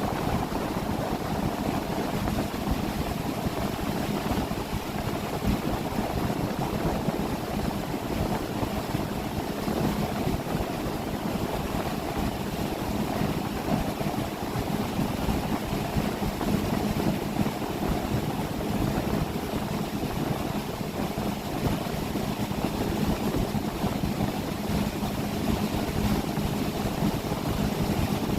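A motorboat's engine running steadily under way, a low even hum over the rush of water and wind.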